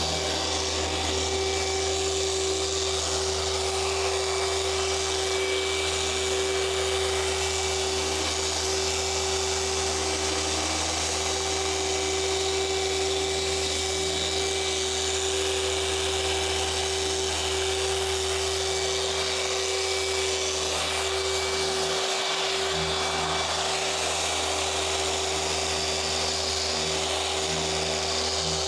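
Electric orbital car polisher running steadily on the paint during paint correction, a constant motor whine over a low hum. The hum dips briefly about three quarters of the way through.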